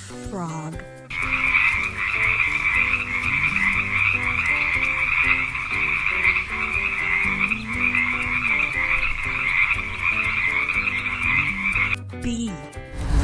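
Frogs croaking in a dense, continuous chorus that starts about a second in and stops abruptly near the end.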